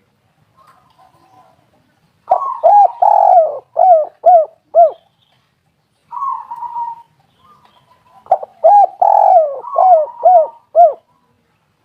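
Spotted dove (tekukur) singing: two loud cooing phrases, each a run of short arched coos, with fainter coos in the gap between them.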